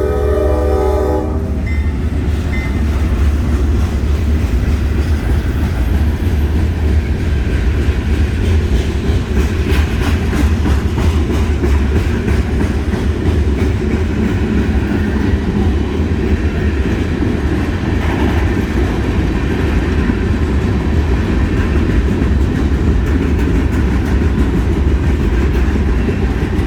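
Diesel freight locomotive horn, a chord of several held tones, cutting off about a second in; then a short freight train rolling past close by, a heavy low rumble with wheels clicking over the rail joints.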